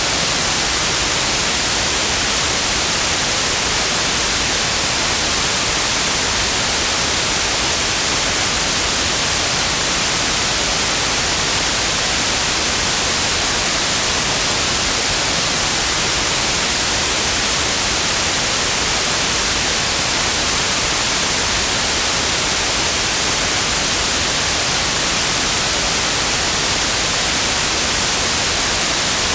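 Steady, unbroken white noise: a constant even hiss, brightest in the high frequencies, with no change or events.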